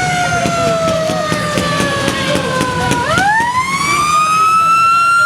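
A siren wailing: its pitch falls slowly for about three seconds, then sweeps quickly back up and holds at a higher pitch.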